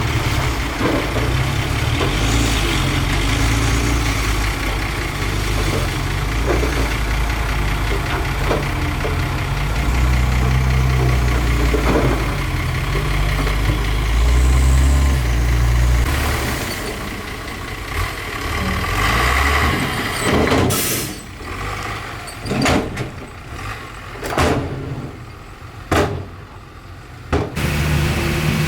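Heavy diesel engine of earthmoving machinery running with a deep rumble that eases off after about 16 seconds. In the second half come several short sharp knocks.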